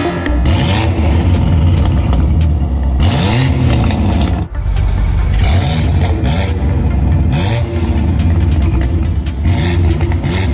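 BMW M8's twin-turbo 4.4-litre V8 revving through sport downpipes with 200-cell sport catalytic converters, its pitch rising several times, about one rev every two seconds.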